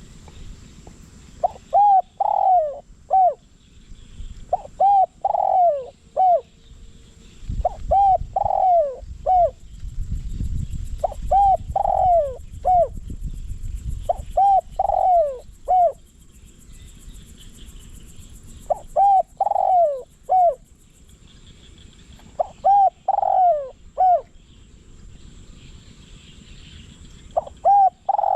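Spotted dove cooing: a three- or four-note coo phrase ending in a short note, repeated about every three seconds, eight times. It is a decoy dove calling to lure wild doves.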